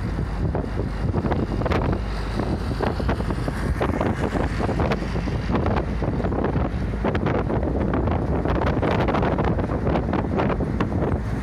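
Route bus running along the road: steady engine and road noise with wind buffeting the microphone.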